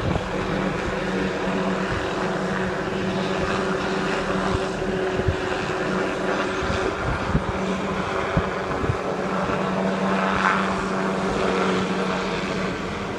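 Helicopter running, a steady drone with a few short clicks over it.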